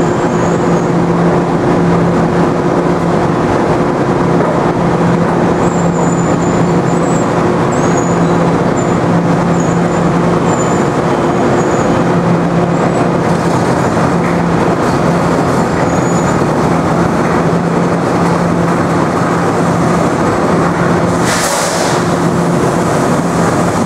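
Metro-North M7 electric multiple-unit train creeping into the platform with a steady electric hum over a constant rumble. Faint high squeals come and go through the middle of the approach, and there is a short burst of hiss near the end as the train comes alongside.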